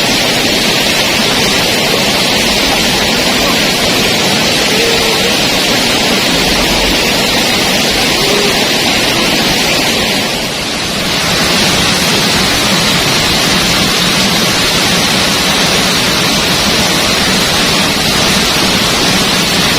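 Waterfall: a loud, steady rush of falling water that dips briefly about halfway through.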